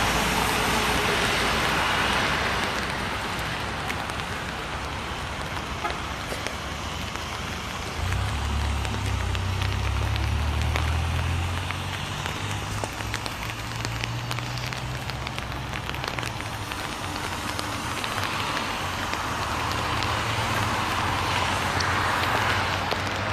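Light rain falling: a steady hiss with many fine drop ticks. A deep low rumble comes in about eight seconds in and fades out by about sixteen seconds.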